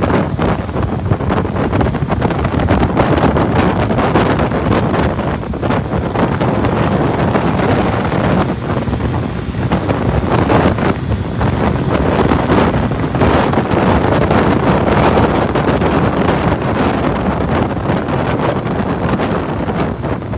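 Wind rushing and buffeting over the microphone of a Suzuki 150cc motorcycle riding at motorway speed, with the bike's running and road noise mixed in underneath. It rises and falls in gusts.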